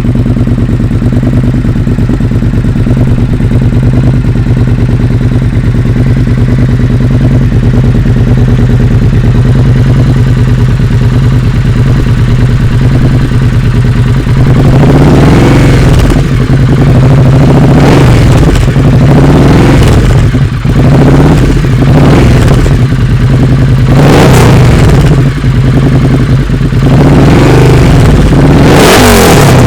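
Triumph Thruxton R's 1200 cc parallel-twin engine through a full stainless 2-into-1 exhaust, idling steadily, then revved repeatedly in a series of rising and falling blips from about halfway through.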